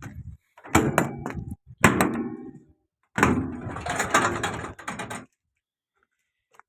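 Metal clanks and rattling from parts of an excavator's bodywork being handled: a few sharp knocks, then about two seconds of rattling and scraping, as the machine is opened up to get at the radiator.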